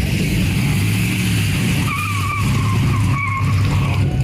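Cruising show cars' engines rumbling steadily as they pass, with two short, high, wavering squeals about two seconds in and again a second later.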